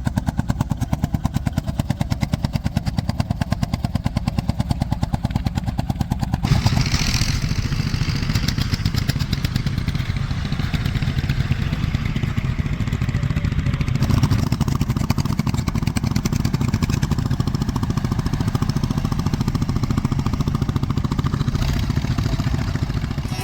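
Vintage tractor engine running with a rapid, even beat of exhaust pulses. The sound shifts abruptly about six and fourteen seconds in, as if between different takes or tractors.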